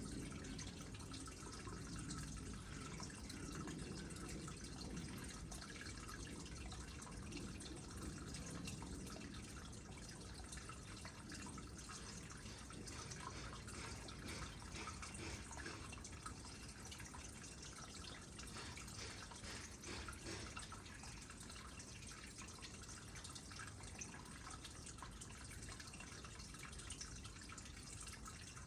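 Water trickling into a small pond: a steady, faint stream of fine drips and splashes.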